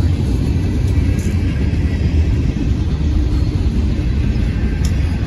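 Covered hopper cars of a CSX freight train rolling past: a steady, loud low rumble of steel wheels on the rails.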